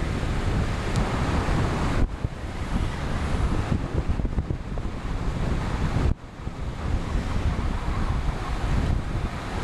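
Wind buffeting the microphone of a camera riding on a moving road bike: a steady, heavy rumble and hiss. It drops away for a moment twice.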